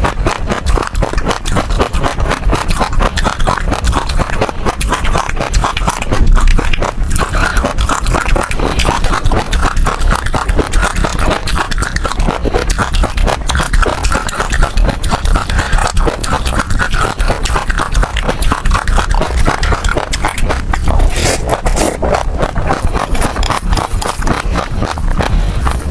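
Passion fruit seeds being bitten and crushed between the teeth, a dense run of crisp cracks and pops that carries on without a break, close-miked.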